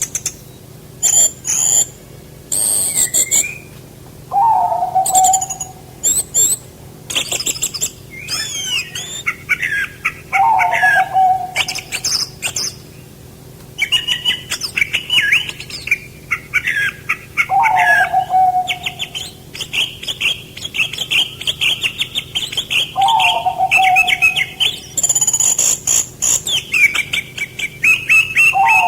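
Several birds singing and chirping in quick high phrases and trills, with a lower, short falling call repeating about every six seconds.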